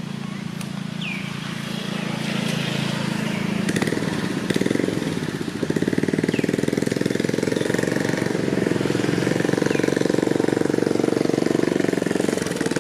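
A small engine running steadily, growing louder about four seconds in with a fast, even throb.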